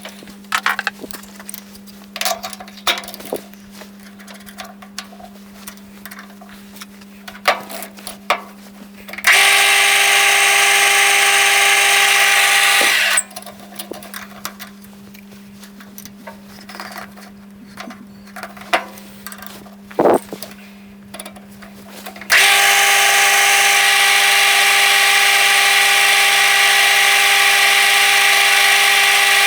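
Lathe drilling a 3 mm hole into a brass workpiece. A low steady hum with light clicks is broken twice by a loud whirring machine sound: once for about four seconds, and again for the last seven seconds or so.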